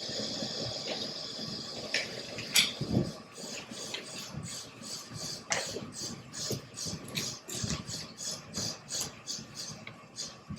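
Quiet room noise with a few sharp knocks, then a steady run of light clicks or taps, about two a second, in the second half.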